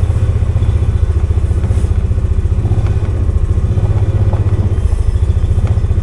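Polaris 570's single-cylinder engine running steadily with a low, rapid chugging pulse, with a few faint clicks over it.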